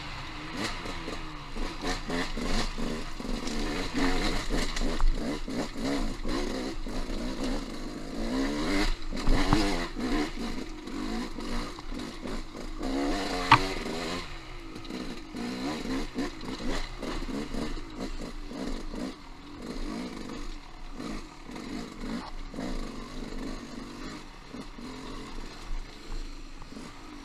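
Trail motorcycle engine running with the revs rising and falling, amid clatter from riding rough ground, with one sharp metallic ping about halfway through.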